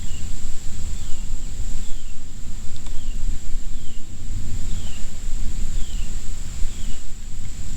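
A bird repeats a short falling call about once a second over a steady high-pitched insect drone, with a loud steady low rumble underneath.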